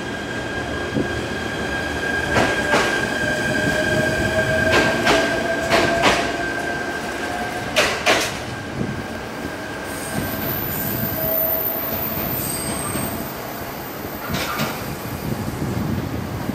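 E129 series two-car electric train running through the station. Its wheels clack over the rail joints in paired knocks, and a faint whine rises slowly in pitch as it gathers speed.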